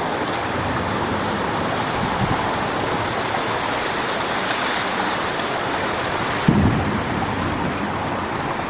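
Strong wind rushing through coconut palm fronds: a steady, loud hiss. About six and a half seconds in, a gust buffets the microphone with a short low rumble.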